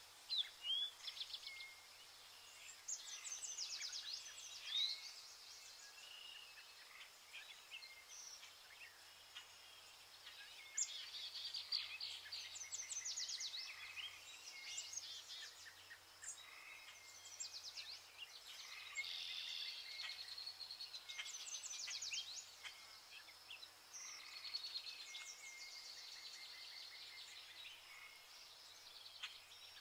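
Birds singing in short, rapid trilled phrases that recur every few seconds, over a faint steady hum.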